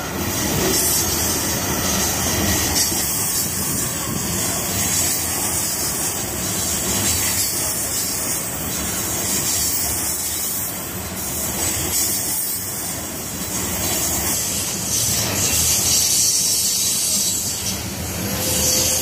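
Freight train of covered hopper cars rolling past close by: a steady rumble and hiss of steel wheels running on the rails.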